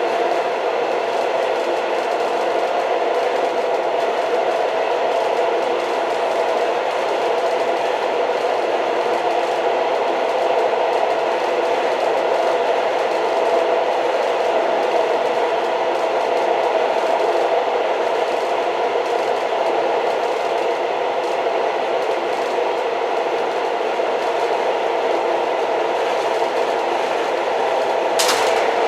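Old train running steadily along the rails, a continuous clattering rattle with no breaks. A sharp clack comes near the end.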